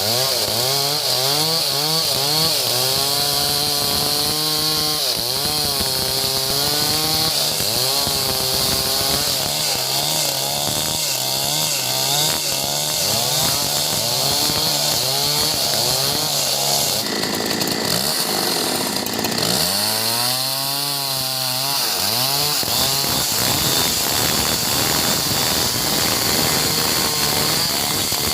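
Two-stroke chainsaw cutting timber, its engine pitch rising and falling as the chain bites into the wood. About seventeen seconds in it eases off briefly, then revs up again and keeps cutting.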